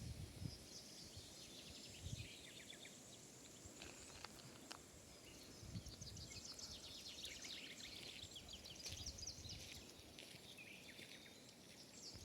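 Faint birdsong in a quiet wood: small birds chirping and trilling in quick repeated notes, over a soft background hush.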